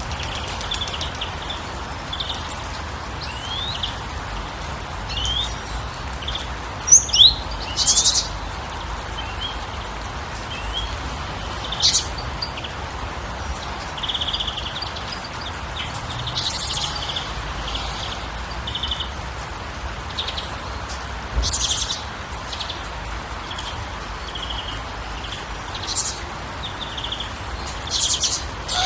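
Small birds chirping in short, scattered calls over a steady background rush, with a few louder, sharper calls, the loudest about seven to eight seconds in.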